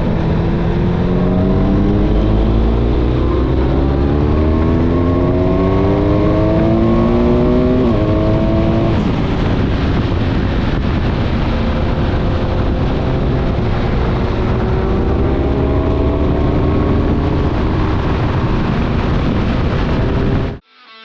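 Motorcycle engine on the move, its pitch climbing steadily for about eight seconds as it accelerates, dropping sharply at a gear change, then running steadier before rising again, over a constant rush of noise. The sound cuts off abruptly just before the end.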